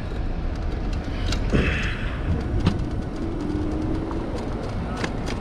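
Street traffic noise and low wind rumble heard while riding an electric motorbike through city streets, with a short hiss about a second and a half in and a brief steady hum in the middle.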